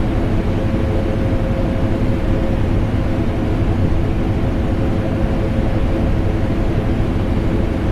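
Vacuum cleaner motor running steadily, blended with an air conditioner's hum: a steady whooshing drone with one held mid-pitched tone.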